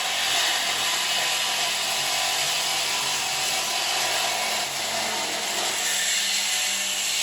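A power tool cutting metal, running steadily with a harsh, rasping hiss.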